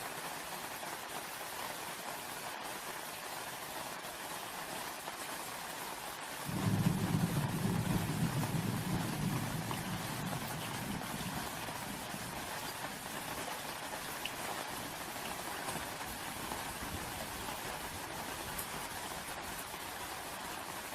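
Steady rain falling, with a low rumble of thunder that comes in suddenly about a third of the way through and fades away over several seconds.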